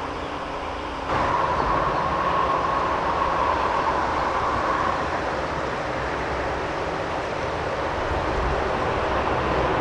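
Metra commuter train running on the rails, a steady rumble and rush that rises suddenly about a second in, with a steady high whine over it until about halfway and again near the end.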